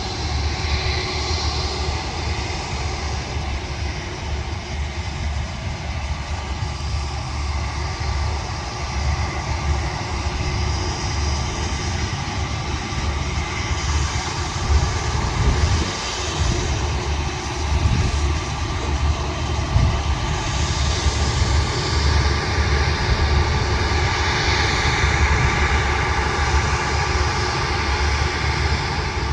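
Aircraft engines running steadily, a constant whine over a low rumble that grows somewhat louder in the second half.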